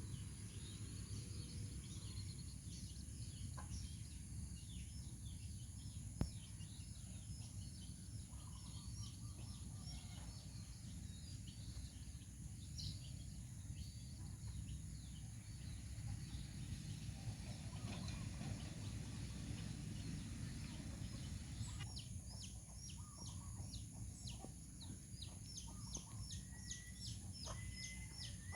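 Outdoor ambience of many birds chirping and fowl clucking over a steady low rumble. The chirping gets busier in the last quarter, and a held whistling note comes in near the end.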